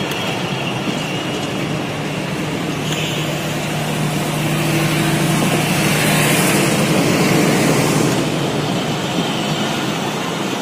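Pakistan Railways passenger coaches of the Awam Express rolling slowly past on departure, their wheels running on the rails with a steady rumble and hum that grows louder midway and eases off near the end.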